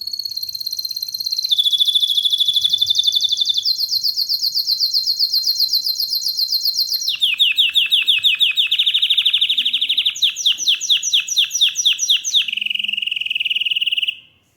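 Domestic canary singing a continuous song of rapid trills, each a fast run of repeated high notes, switching to a new trill every few seconds and closing on a steady high whistle. The song stops abruptly near the end.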